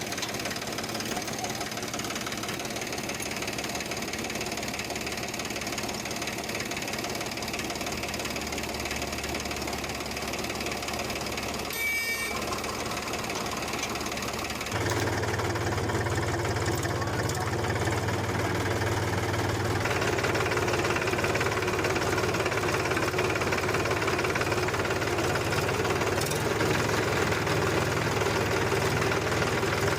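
Tractor engine running steadily. There is a brief click about twelve seconds in, and a few seconds later the running sound steps up, louder and deeper.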